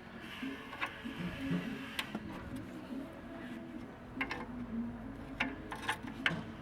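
Irregular sharp clicks and taps, more of them in the second half, over a faint wavering tune.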